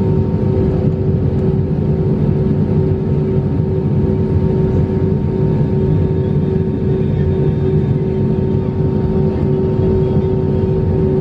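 Airbus A320 cabin noise: the aircraft's engines running, heard from inside the cabin as a steady rumble with a constant hum over it.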